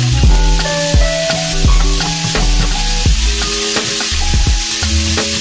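Sliced mushrooms and onions sizzling in a nonstick frying pan as they are stirred, over background music with a bass line and percussion.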